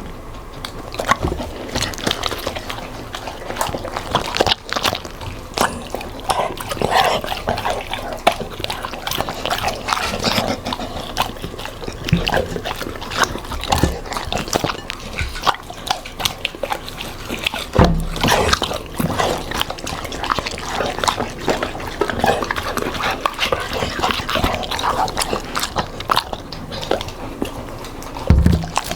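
A Labrador and a golden retriever eating: a quick, irregular run of wet chewing, smacking and licking sounds.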